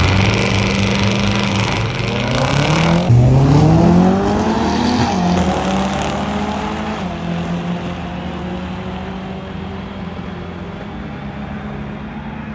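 Drag-racing car: a loud rushing hiss for the first few seconds, then the engine's pitch rises steeply as it accelerates hard, levels off and fades as the car pulls away down the track.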